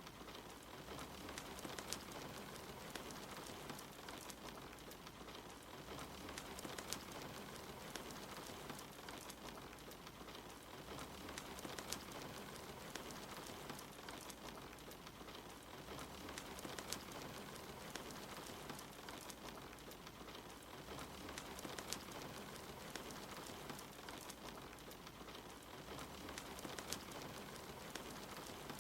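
Steady soft rain with scattered small crackles and pops from a wood fire in a fireplace.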